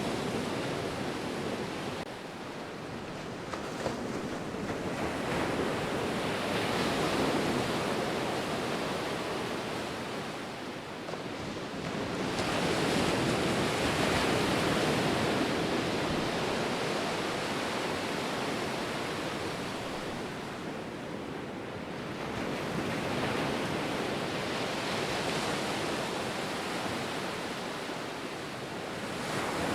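Ocean surf: waves breaking and washing in, a steady rushing noise that swells and eases in three slow surges.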